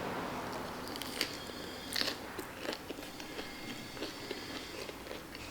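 A person biting and chewing crunchy food, with sharp crunches, the loudest about one and two seconds in.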